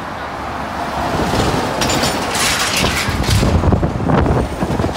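A heavy truck passing close by, its engine and tyre noise building from about a second in, with a hiss of tyres and air followed by a deep rumble.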